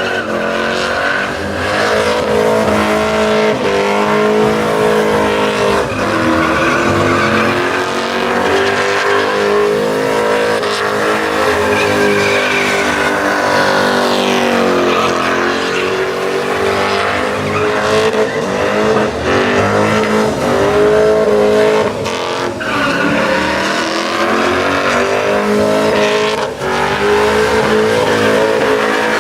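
Truck engine held at high revs, its pitch swinging up and down, with spinning tires squealing continuously during a burnout.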